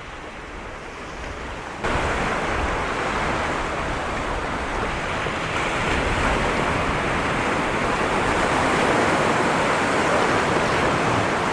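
Rough sea surf washing onto the shore in a steady, noisy rush, stepping up suddenly and growing louder from about two seconds in.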